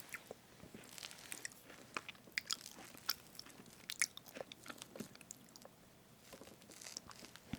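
Close-miked eating sounds of strawberry whipped-cream cake: soft chewing with scattered small wet clicks and crackles.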